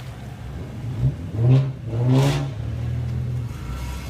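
Car engine with a loud aftermarket muffler idling, blipped twice in quick succession a little over a second in, each rev rising and falling back to idle.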